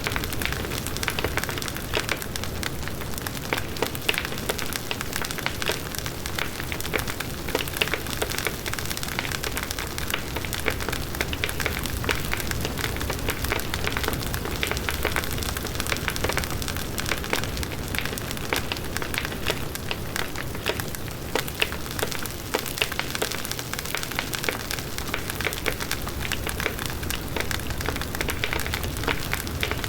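Large wood bonfire burning: the low rush of the flames, with dense, irregular crackling and popping of the burning wood throughout.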